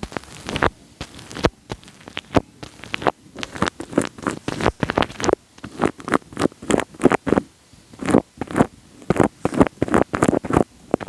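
Wet, sticky crackling and squishing right on the microphone: many short irregular pops, several a second, with brief pauses between clusters.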